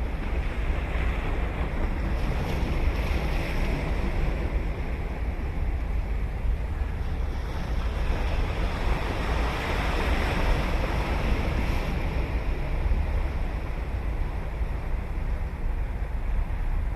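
Ocean surf washing onto a beach in continuous, rolling swells, one building to a peak about ten seconds in. A steady low wind rumble on the microphone runs underneath.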